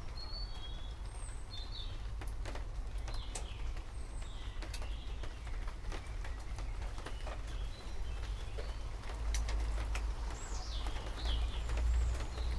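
Small birds chirping in short, high calls over a low rumble of distant thunder that swells in the last few seconds, with scattered light ticks like falling drops.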